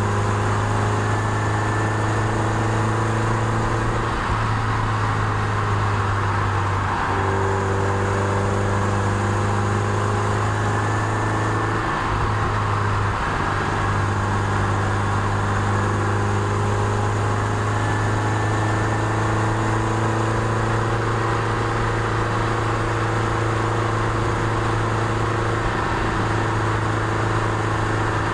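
Toyota MR2 Spyder's mid-mounted 1.8-litre four-cylinder engine heard from inside the car, running steadily as it pulls uphill, its note shifting a few times as the revs change, over a steady road hiss.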